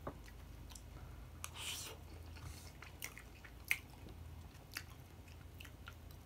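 Faint chewing close to the microphone: scattered wet mouth clicks and smacks, with a brief noisier stretch about a second and a half in.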